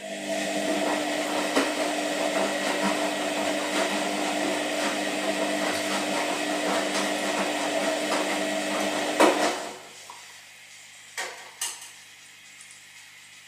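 Washing machine running with a steady hum and scattered knocks. It cuts off suddenly a little under ten seconds in, and two sharp clicks follow.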